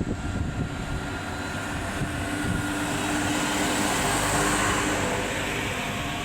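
A train passing at speed: wheel-on-rail rumble and knocking with a steady whine on top, growing louder to its peak a little past the middle.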